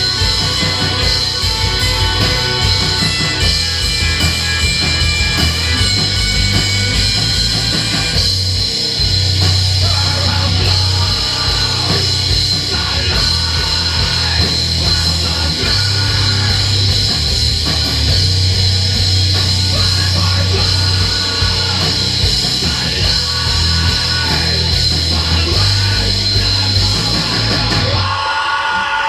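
Live metal band playing loud, dense music: distorted guitars over a heavy, pulsing low end. The song stops abruptly near the end.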